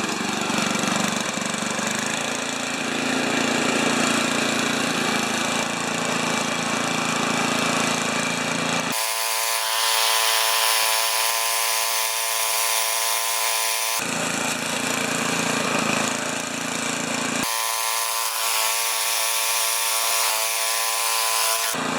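John Deere 832 snowblower's small gasoline engine running steadily after starting. Twice, for a few seconds each, the low rumble cuts out abruptly and the sound turns thinner and hissier, then comes back.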